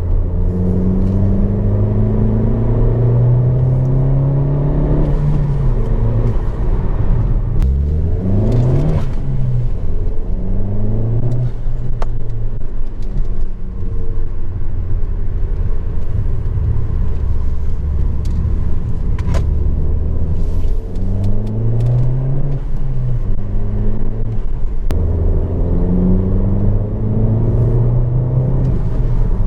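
Alfa Romeo Giulietta 1.4 turbo petrol four-cylinder breathing through a Paris Garage aftermarket rear silencer, with the original centre silencer kept. The engine pulls up through the revs several times, its pitch climbing and then dropping back at each gear change or lift-off.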